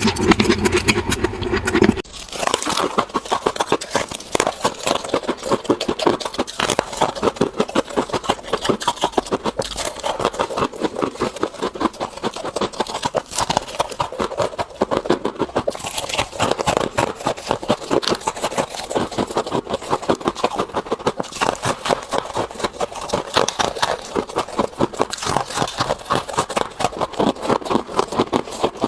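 Close-up crunching of soft freezer frost ice being bitten and chewed, a rapid, uneven run of crisp crackles. A fuller, louder sound cuts off suddenly about two seconds in.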